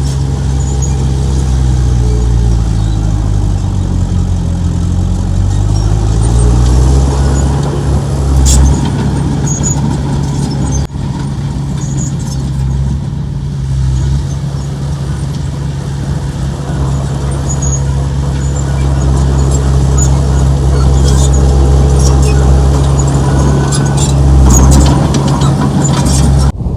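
Diesel engine of heavy earthmoving machinery running hard and steadily. Its pitch dips and climbs back over the first several seconds, and sharp metallic knocks and clanks come through now and then, more of them toward the end.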